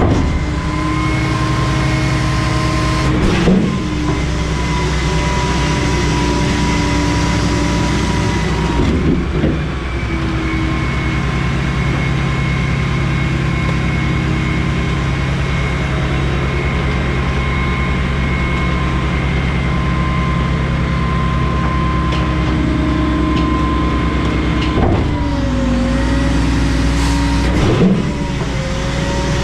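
Garbage truck's hydraulic packer cycling: the engine runs steadily under load with a steady hydraulic pump whine that shifts pitch a few times, and a few short clunks as the packer panel moves.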